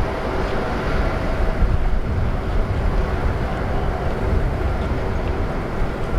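Airbus A330-300 airliner's jet engines running steadily: a low, fluttering rumble with faint steady whining tones above it, and wind buffeting the microphone.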